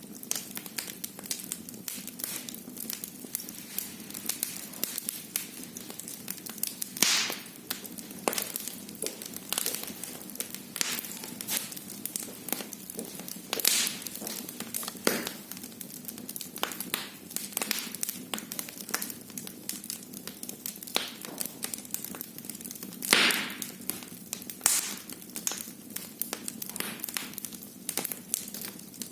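Wood fire burning in a fireplace, crackling steadily with a low hiss and frequent sharp pops, a few of them louder, about 7, 14 and 23 seconds in.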